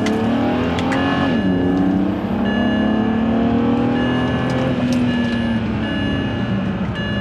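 BMW E92 335i's turbocharged 3.0-litre straight-six accelerating, rising in pitch. It drops sharply about a second in as it shifts up, then climbs again and eases off near the end.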